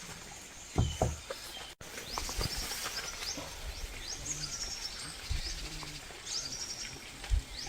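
Small birds chirping repeatedly, short high notes that fall in pitch, with a few dull low thumps, the loudest near the end.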